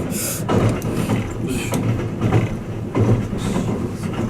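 Running noise of the Twilight Express Mizukaze train heard from inside a passenger room: a steady low rumble that swells every second or two as the train travels.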